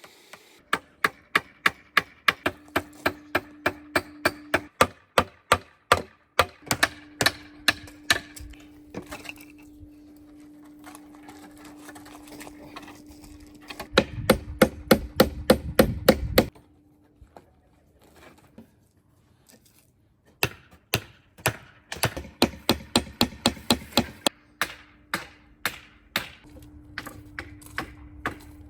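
Repeated chopping on wood, sharp strikes at about two a second, briefly faster and heavier about halfway through, then stopping for a few seconds before starting again.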